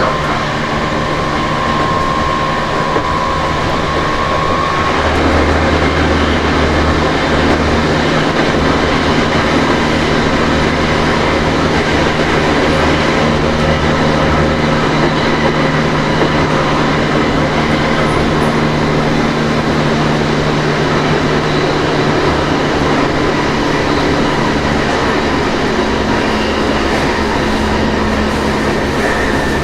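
Running sound heard inside a Tokyo Metro 07 series subway car fitted with a trial Hitachi full-SiC VVVF inverter and permanent-magnet motors, travelling at speed. A steady high tone stops about four seconds in, leaving steady rolling noise with a low hum.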